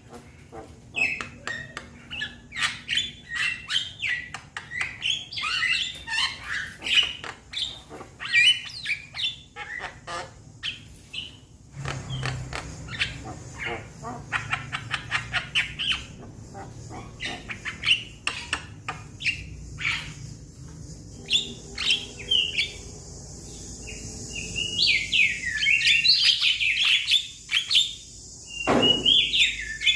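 Young Javan mynas calling to their flock: a rapid, continuous run of short chirps, clicks and harsh squawky notes. The calls grow louder and fuller in the last few seconds, and one call sweeps quickly down in pitch just before the end.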